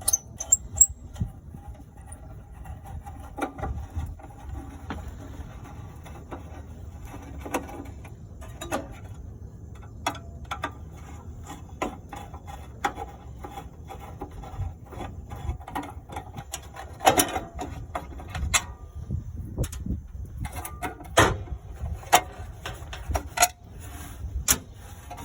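Screws being taken out of a propane generator's battery cover by hand: scattered clicks, scrapes and knocks of the tool, the screws and the cover being handled, with a few louder knocks about two-thirds of the way through.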